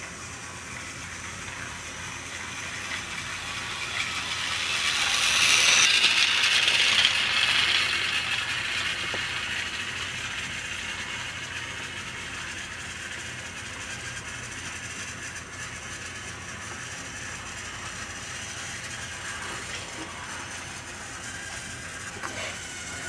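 Battery-powered TrackMaster toy train's motor and gears whirring and rattling as it runs along plastic track. It grows louder as it passes close about five to seven seconds in, then settles back to a steady level.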